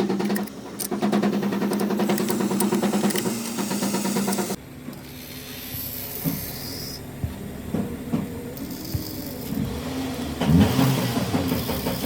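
Car engine running with a steady hum and rapid, even pulsing, dropping suddenly to a quieter run about four and a half seconds in.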